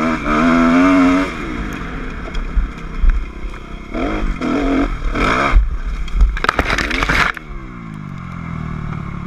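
Dirt bike engine revving up and down, with several knocks and scraping in the middle stretch. About seven seconds in, the engine note drops suddenly and settles to a lower, steady run.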